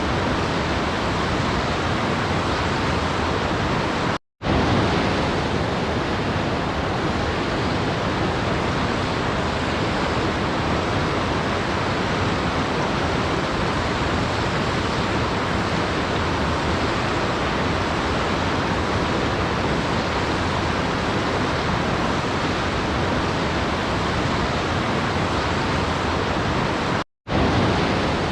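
Waterfall, a steady, even rush of falling water like white noise, cutting out to silence for a split second twice: about four seconds in and again near the end.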